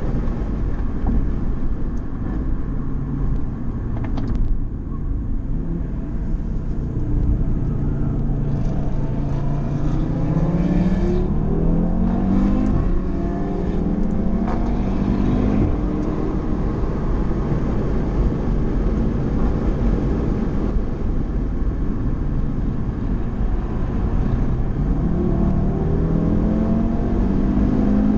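Car engine heard from inside the cabin over heavy road and wind noise as the car is driven at speed. The engine note rises in steps through the gears from about a third of the way in, settles, then climbs again near the end.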